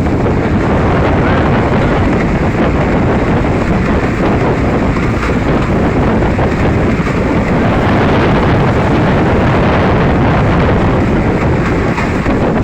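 Strong wind roaring on the microphone aboard a motorized banca (outrigger boat) in high winds. The boat's engine and the rushing water blend into a loud, steady rumble.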